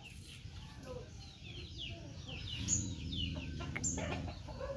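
Birds chirping: many short, high, falling chirps, over a low rumble that swells in the middle.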